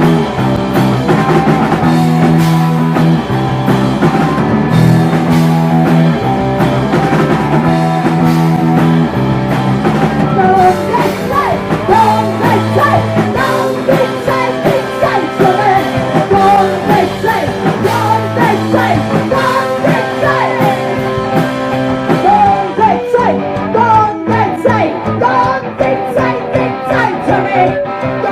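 Live punk rock band playing an instrumental break with distorted electric guitars, bass and drums. From about ten seconds in a bending, wavering lead guitar line plays over the chords.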